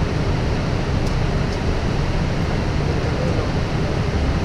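Steady rushing airflow and engine noise on the flight deck of a Boeing 777 in flight during approach.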